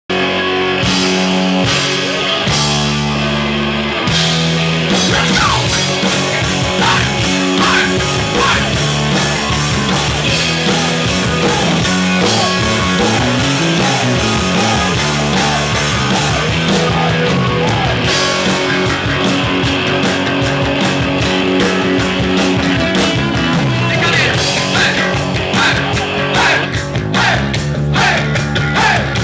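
Heavy metal band playing live: electric guitars, bass and drums at a steady, loud level, with sliding lead guitar or vocal lines above.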